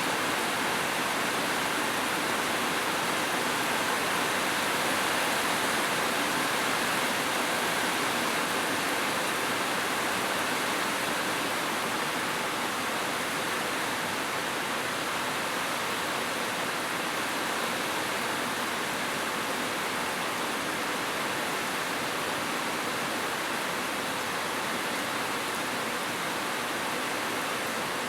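Steady, dense rain falling: an even hiss with no separate drops or thunder standing out.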